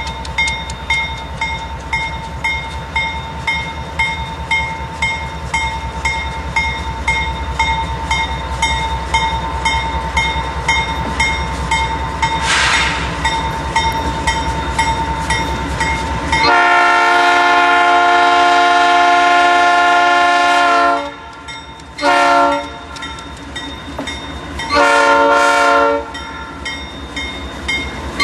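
A freight train rolling past with a steady rhythmic clatter of wheels over the rails, a low rumble and a steady ringing tone. Then a diesel locomotive's air horn sounds: one long blast, a short one, and two more long blasts near the end, louder than everything else.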